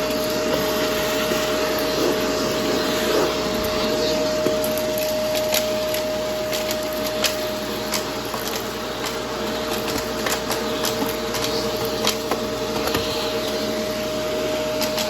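Vacuum cleaner running with a steady motor whine, while crunchy debris crackles and clicks irregularly as it is sucked up.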